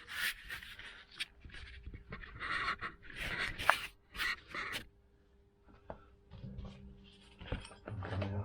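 Irregular handling noise of short scrapes, rubs and clicks, with a brief drop to silence a little past halfway.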